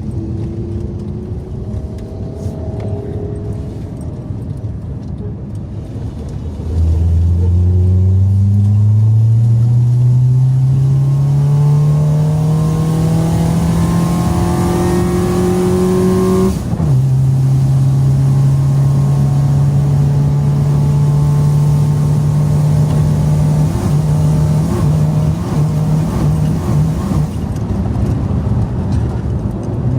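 A Citroën Saxo VTR engine, with its airbox disconnected so the induction noise comes through, pulls hard under acceleration. The note starts quieter, turns loud and rises steadily through a gear about a quarter of the way in, drops sharply at an upshift a little past halfway, then holds steady at a lower pitch with some flutter near the end.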